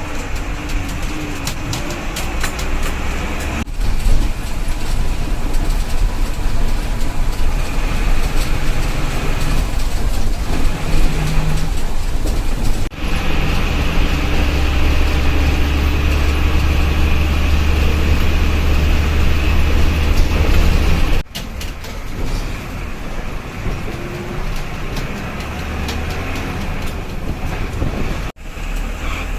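Tata bus on the move: steady diesel engine drone with road noise. The sound changes abruptly several times, deepening and growing louder for a stretch in the middle.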